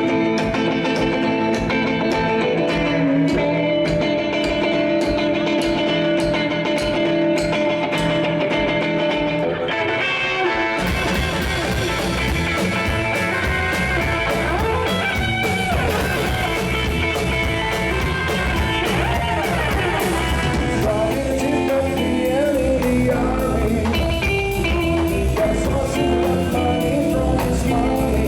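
Rock and roll band playing: electric guitar alone for about the first ten seconds, then the full band with bass and drums comes in.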